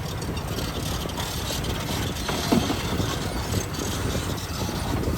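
Diesel engine of heavy earthmoving machinery running steadily, with a brief louder clunk about two and a half seconds in.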